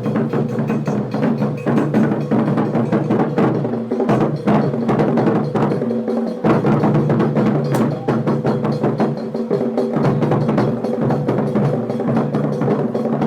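Live percussion music: drums and sharp wood-block-like knocks in a fast, continuous rhythm over a steady lower tone.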